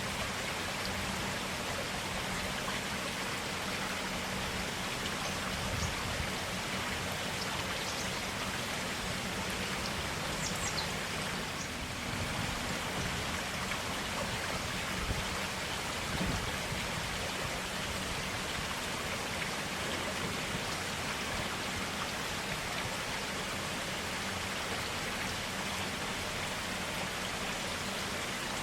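Shallow forest stream, its water running and splashing steadily.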